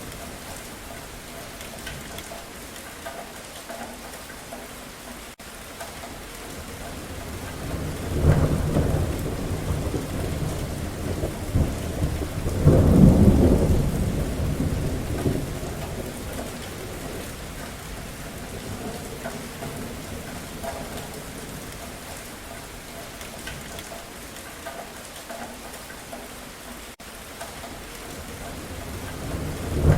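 Steady rain with two rolls of thunder: the first about eight seconds in, and a louder, longer one a few seconds later that slowly fades.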